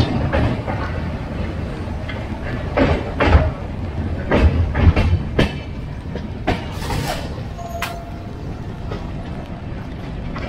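Duronto Express passenger coach running along the track at speed: a steady low rumble with sharp clacks of the wheels crossing rail joints, several coming in quick pairs near the middle, heard at the open coach door.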